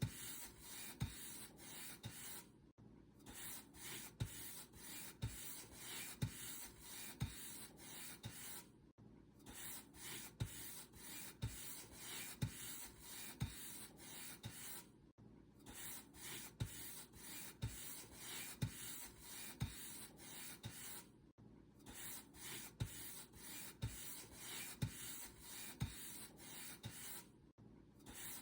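Paint brush stroked back and forth over a surface, a dry bristly scratching in regular strokes about once a second, with a brief break every six seconds or so.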